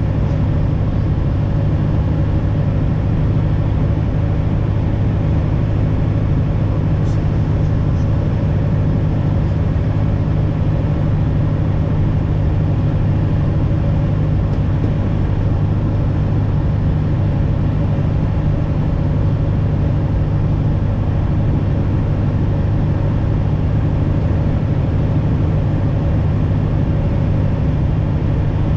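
Light aircraft engine and propeller droning steadily, a loud even low hum with no change in power.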